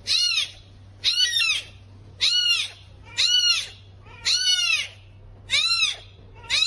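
A pet animal giving seven high calls at about one a second, each rising and then falling in pitch, over a faint low hum.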